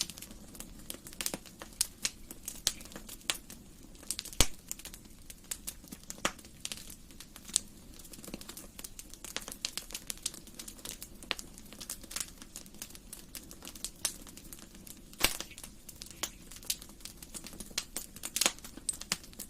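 Wood fire crackling: irregular sharp pops and snaps from burning logs over a low steady hiss, with two louder pops, about four seconds in and about fifteen seconds in.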